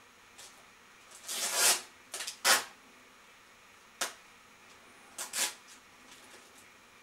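Packing parcel tape pulled off its roll in a few short, rasping rips: a longer one in the first couple of seconds, two quick ones right after it, and a final pair about five seconds in, with a sharp click between them.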